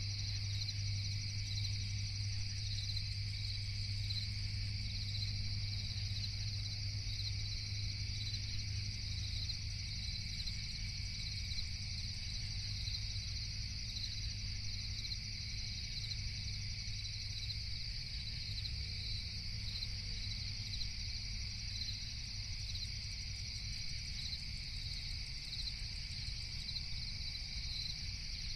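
Night insect chorus of crickets chirping steadily in two high-pitched layers, with a low steady hum beneath that fades somewhat after about ten seconds.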